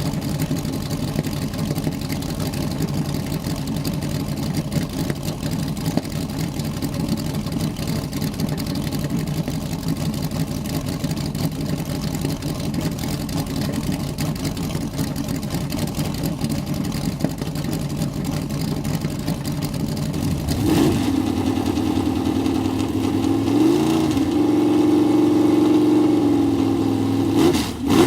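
Vintage race car engine running steadily, then revved: from about two-thirds of the way in its pitch rises and falls twice.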